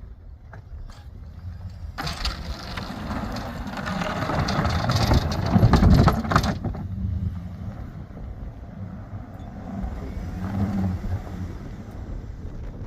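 A vehicle running with a steady low rumble. About two seconds in, a loud rushing hiss rises over it, builds, and cuts off suddenly after a few seconds.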